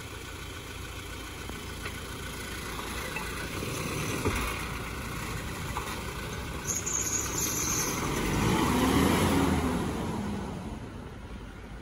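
Toyota Innova Crysta's engine running as the MPV pulls away and drives off, the sound swelling about three-quarters of the way through and then fading.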